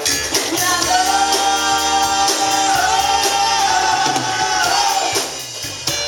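Live rock band playing, with a singer holding one long note for about four seconds over the band before it drops back.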